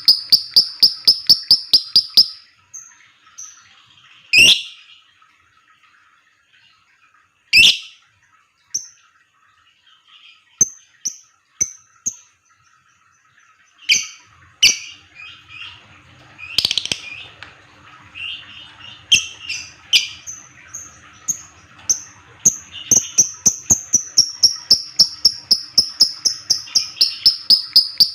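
Lovebird giving the rapid 'ngetik' chatter: a fast, even run of short high chirps, about five a second, which breaks off after about two seconds. Sparse loud single shrill calls and scattered chirps follow, and the fast even run resumes for the last several seconds.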